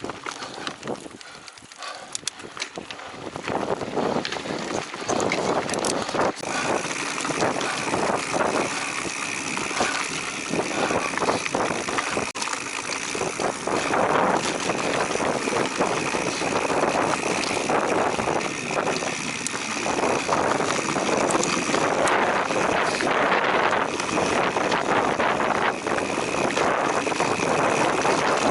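Giant Trance Advanced Pro full-suspension mountain bike riding over a dirt trail: tyres rolling over dirt and rocks with constant rattles and knocks from the bike, and wind on the microphone. It grows louder a few seconds in as speed picks up, and a steady high whine runs along from about six seconds in until near the end.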